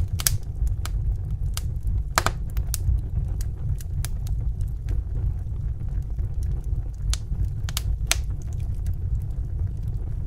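Wood fire crackling: a steady low rumble of burning with irregular sharp pops and snaps, the strongest just after the start and about two seconds in.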